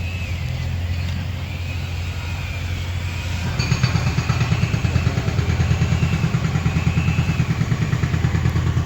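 An engine running steadily, turning into a quick regular pulsing about three and a half seconds in.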